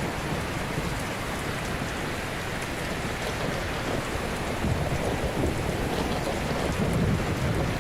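Ocean waves breaking gently on a shore: a continuous hiss of surf, with the low rumble of the water swelling louder about five seconds in and again near the end.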